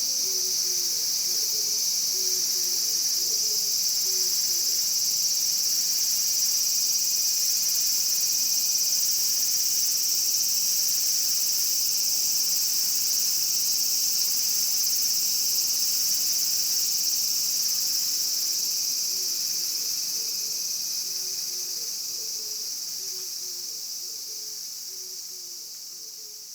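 Japanese cicadas buzzing: a steady, high-pitched, unbroken drone that fades out gradually over the last several seconds.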